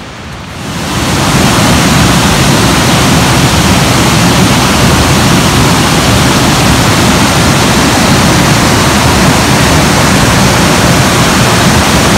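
Loud, steady rush of a waterfall close by, running high after heavy rain; it swells up sharply about a second in and then holds even.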